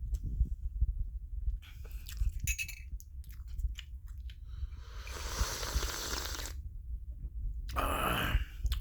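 A person chewing and biting into donut French toast close to the microphone: irregular wet clicks and low thumps, with a longer rushing noise about five seconds in and a shorter one near the end.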